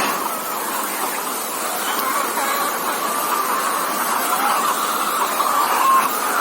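Large flock of caged layer hens clucking and calling together, a dense steady chatter of many overlapping calls over a steady background noise.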